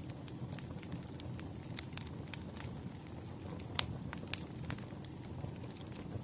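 Wood fire burning with a low steady rumble and irregular crackles and pops, one sharper pop a little under four seconds in.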